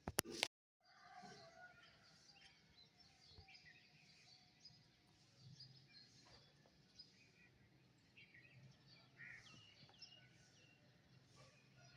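Birds chirping and calling faintly, several short calls overlapping. A few sharp clicks come in the first half-second, then the sound cuts out completely for a moment before the birdsong resumes.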